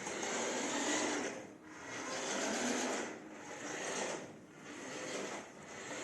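Small electric drive motor and gearbox of a toy RC spray tank truck whirring as it is driven, in repeated swells about a second long with short dips between, like throttle being applied and released.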